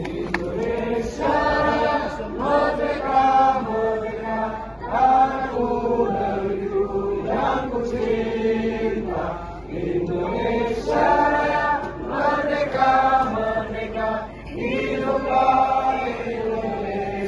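A group of voices singing together in long held notes, phrase after phrase with short breaks between them.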